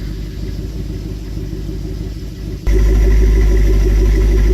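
The 6.1-litre V8 of a 2008 Jeep Grand Cherokee SRT8 with a Flowmaster exhaust idling steadily. A little over halfway through the sound abruptly gets louder and deeper and stays that way.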